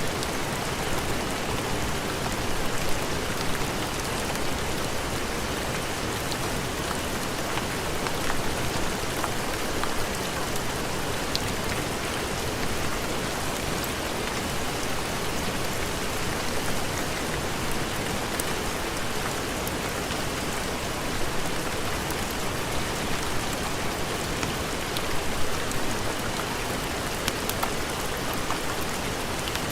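Steady heavy rain, a dense even hiss with scattered sharp drop ticks.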